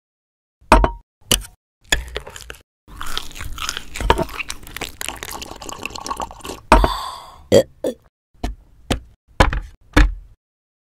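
Crunching chewing sound effects for about four seconds in the middle, with separate sharp clicks and taps before and after.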